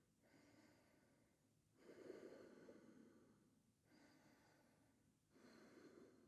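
Near silence with a person's faint, slow breathing: about four long breaths, each followed by a short pause.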